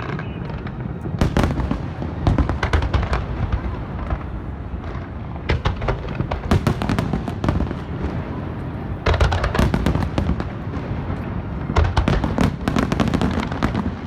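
Aerial fireworks exploding, heard from across a river: clusters of rapid sharp cracks and bangs, in four bursts, over a steady low rumble of booms.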